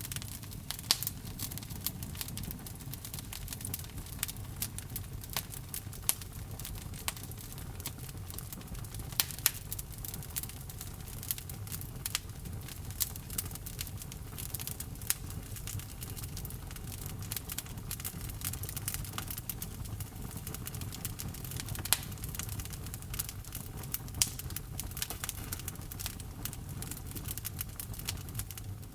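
Wood fire burning in a fireplace: a steady low rumble of the flames with irregular crackles and occasional sharper pops of the burning logs.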